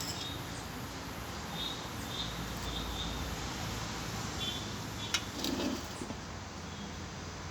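Quiet eating sounds at a meal: soft chewing and handling of food, with a sharp click of cutlery on a plate about five seconds in and a few faint high chirps a couple of seconds in, over a steady background hiss.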